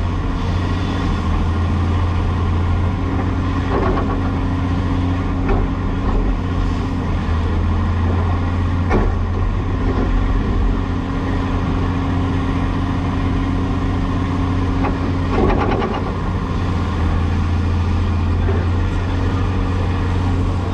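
Cat 336E excavator's diesel engine running steadily under work. A higher steady hum comes in and drops out twice, and there are a few sharp knocks or clanks.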